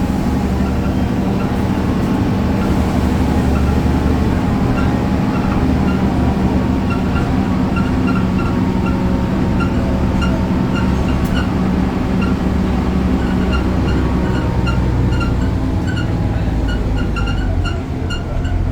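BredaMenarini Avancity Plus city bus with its Deutz Euro 5 diesel running in a steady drone, while a high-pitched chirping squeak repeats a few times a second. The squeak sets in about a quarter of the way in and grows more prominent; it is the strange noise this bus is known for.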